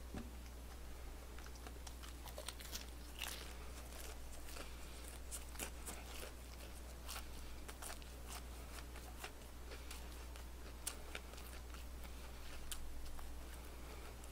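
Chewing crispy fried chicken close to the microphone: irregular crisp crunches and mouth clicks, with a steady low hum underneath.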